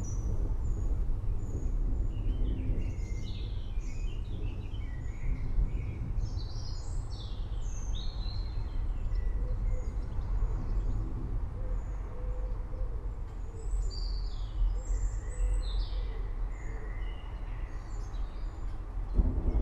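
Several forest birds chirping and calling in short, varied notes, some sliding in pitch, over a steady low background noise.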